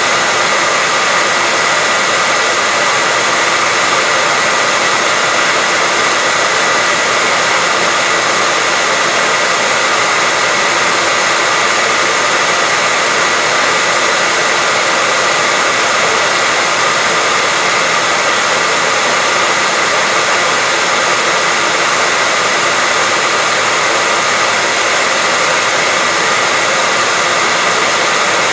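Hair dryer running steadily: a constant airy rush with a thin whine.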